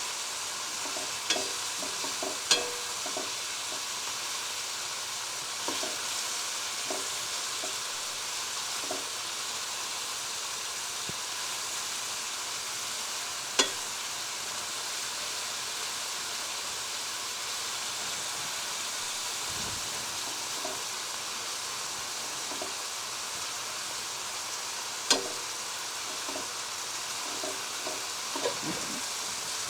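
Thin strips of marinated chicken thigh sizzling steadily in oil in a non-stick wok on high heat while being stir-fried, with a few sharp clicks and small scraping ticks from the stirring.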